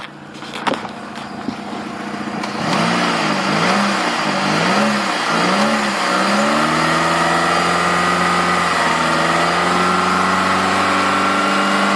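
2003 Saturn engine revved with the hood open: after a few seconds at idle it is blipped up and down about four times, then held at a steady raised speed. It runs smoothly with no ticking or pinging, which the owner takes as a sign of a healthy engine.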